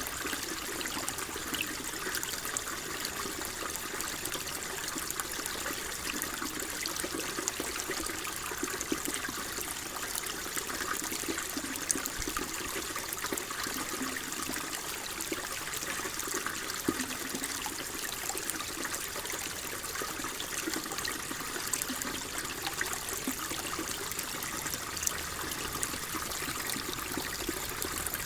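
Water flowing and trickling steadily, an even splashing with many small drips and gurgles.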